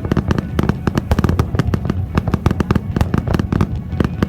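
Fireworks going off in a rapid barrage: many sharp bangs a second, one after another, over a deep rolling rumble.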